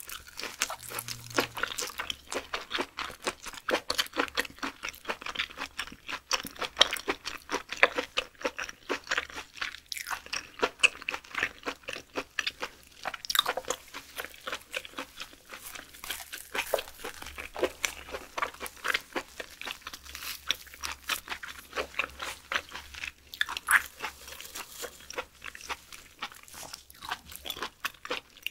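A person chewing raw beef skirt (chimasal yukhoe) close to the microphone: a dense run of short mouth clicks and smacks, several a second.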